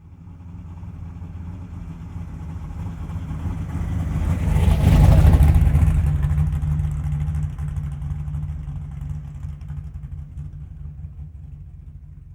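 A car driving past: its engine hum and tyre noise grow louder as it approaches, are loudest about five seconds in, then fade away.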